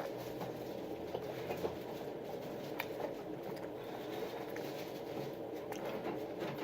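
Steady low room noise with a few faint, scattered clicks.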